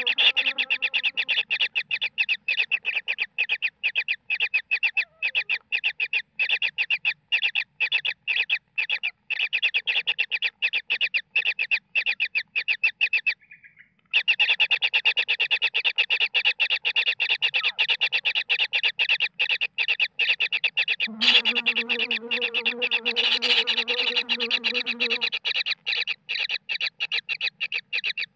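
Bird calls repeated rapidly and evenly, about three to four a second, with a brief break about halfway. A lower, drawn-out call joins for about four seconds in the second half.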